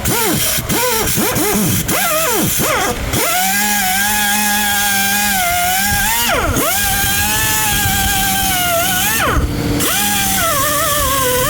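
A power tool's motor whining, sped up and let off in quick pulses at first, then held at speed in two long runs with a sharp drop between them.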